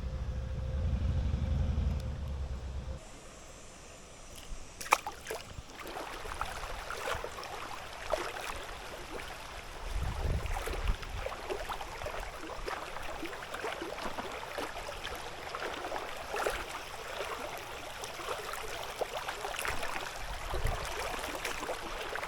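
River water running over a shallow riffle, a steady trickling and gurgling. For the first few seconds wind rumbles on the microphone, and a couple of sharp clicks come about five seconds in.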